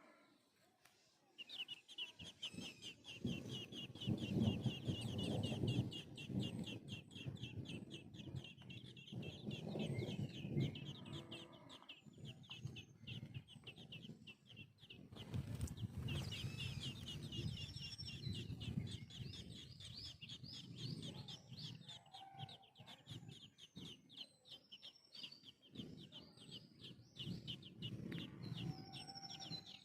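Young birds cheeping rapidly and without pause in a high, dense chorus, the begging calls of hungry chicks being fed. Stretches of lower sound run underneath.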